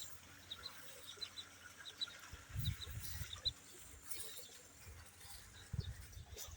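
Ducklings peeping: many short, high peeps scattered throughout. A few dull low thuds come about three seconds in and again near six seconds.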